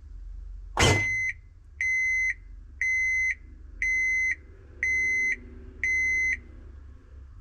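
Washing machine's control panel beeping six times, one even beep a second: the signal that the wash cycle has finished. A sharp click comes with the first beep.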